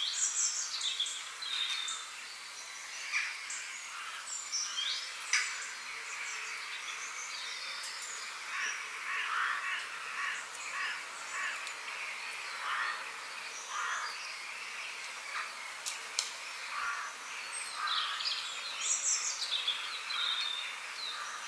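Several small birds chirping and singing, with quick high sweeping notes near the start and again near the end and denser lower chirping in the middle, over a steady high hiss.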